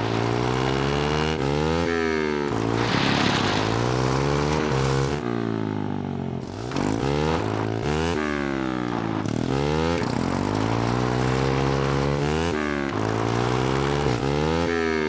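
A small mini bike engine revving up and easing off again and again as it is ridden, its pitch climbing and dropping every second or two. A burst of hiss comes about three seconds in.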